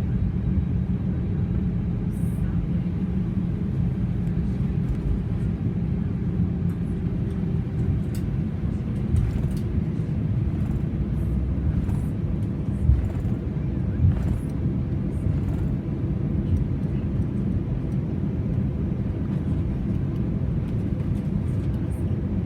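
Steady low rumble of an Airbus A320's engines and airflow heard from inside the passenger cabin, with a few light knocks or rattles about halfway through.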